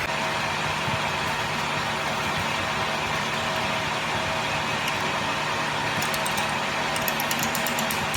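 A machine running steadily: a constant hum over a noisy hiss, with a run of light, rapid ticks in the last two seconds.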